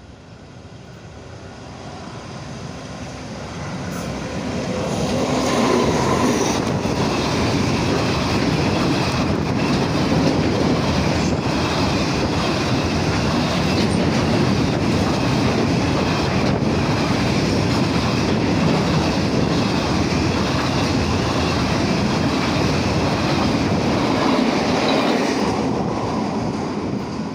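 Container freight train passing close by, its wagons' steel wheels running over the rails. It builds over the first few seconds, runs loud and steady, and fades away near the end, with scattered sharp clacks in the run.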